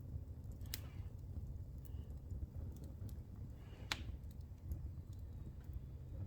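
Fireplace fire burning New Year pine decorations, crackling with a low steady rumble and scattered light ticks; two sharp pops stand out, about a second in and again near four seconds.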